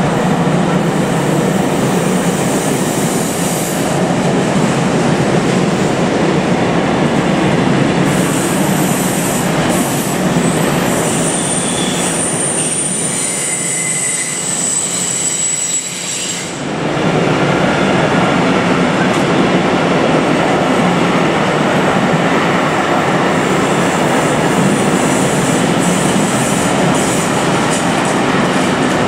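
Freight wagons of an intermodal container train rolling past: a loud, steady noise of steel wheels on rails. A thin high squeal rides over it for several seconds around the middle.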